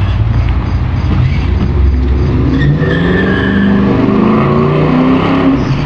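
Battery-powered kids' ride-on Grave Digger monster truck being driven: a steady pitched drone that wavers and slowly rises and falls.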